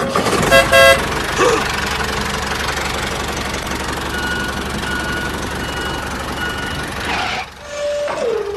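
Mini tractor's engine running steadily, with a short horn-like tone about half a second in and four short, evenly spaced beeps from about four to seven seconds in. The running sound drops away about seven seconds in.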